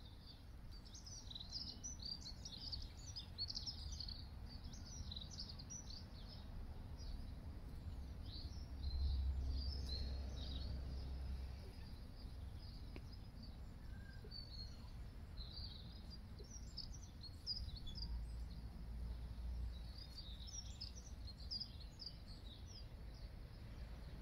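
Small songbirds chirping and twittering in quick, high notes throughout, over a low rumble that swells twice.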